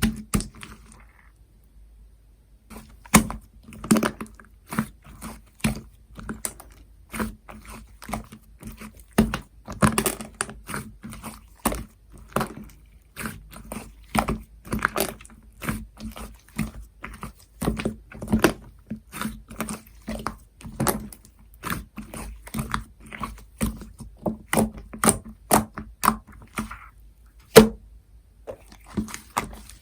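Purple jelly slime being pressed and squished by hand, making a long string of irregular sticky clicks and pops, several a second, starting about two and a half seconds in.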